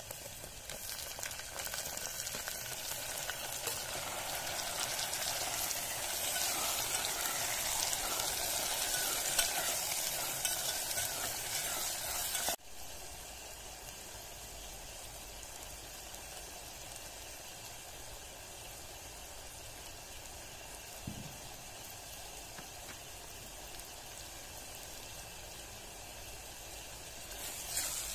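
Chopped onion, capsicum, tomato and garlic sizzling in hot oil in an aluminium pot, stirred with a metal spatula. The sizzle is louder in the first half, drops off suddenly about halfway through, and rises again near the end.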